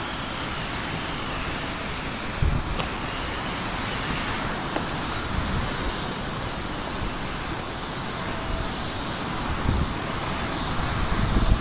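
Heavy cyclone rain and wind, a steady hiss of downpour with a few low gusts buffeting the microphone.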